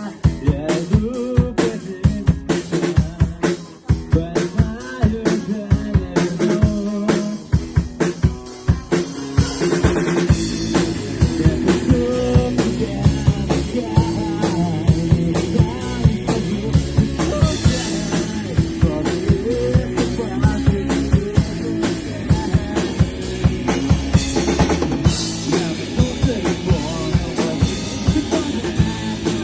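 Live band playing, the drum kit to the fore with sharp snare and kick hits over pitched instruments; about ten seconds in the playing fills out and gets louder.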